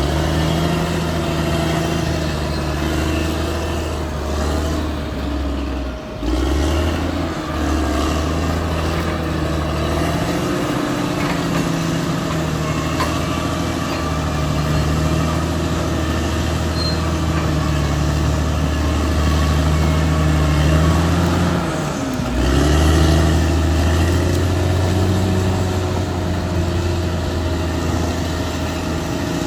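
Caterpillar D6R XL bulldozer's diesel engine running steadily under load. Its note drops briefly twice, about six seconds in and again about twenty-two seconds in, then picks back up.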